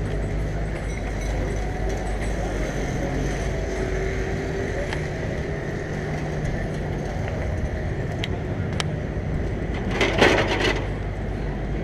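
City street ambience: a steady rumble of traffic. About ten seconds in there is a brief, louder rush of noise.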